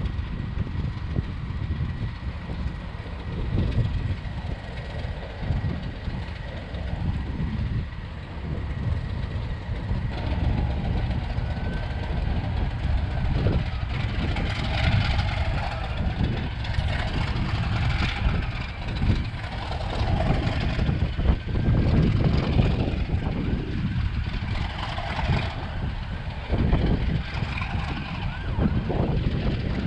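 A train on a heritage railway running, a continuous heavy low rumble.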